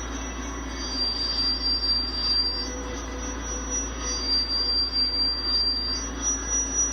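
A thin, high-pitched steady whine that switches back and forth between two close pitches every two to three seconds, over a steady hiss and low hum. It is picked up by the iPhone but not heard by ear at the time of recording.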